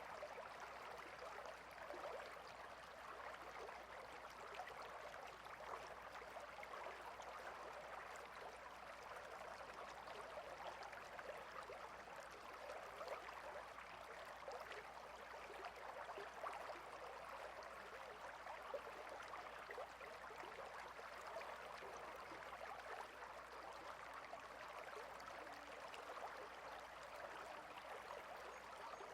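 A small stream babbling steadily: an even, faint rush of running water full of tiny splashes.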